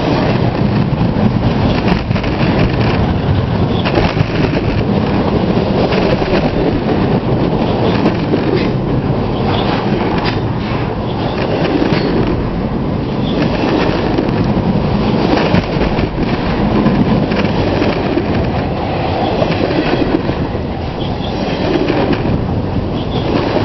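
Canadian Pacific train's cars rolling steadily past close by on a bridge: a loud, continuous rumble of wheels on rail, with scattered faint clicks.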